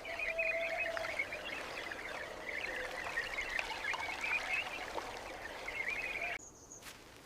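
Dense chattering of many birds, a stream of short overlapping chirps, that cuts off abruptly about six and a half seconds in, followed by a couple of faint clicks.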